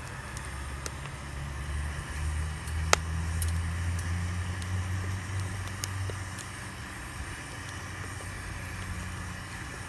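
A motor vehicle passing: a low rumble that swells about two seconds in and fades again after about six seconds, with one sharp click about three seconds in.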